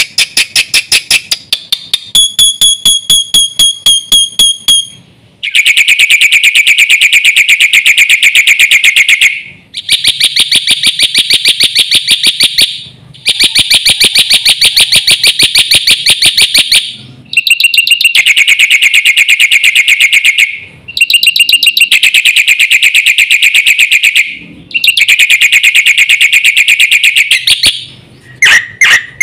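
Black-winged myna (jalak putih) singing loudly and continuously. It starts with a string of separate sharp notes, then sings a series of very fast, rattling trills a few seconds long, each broken off by a short pause.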